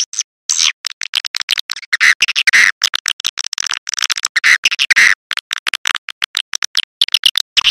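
Swiftlet lure call: rapid, dense chattering twitters, high chirps in quick runs cut by many brief gaps. It is the kind of call played from a swiftlet nest house to attract swiftlets.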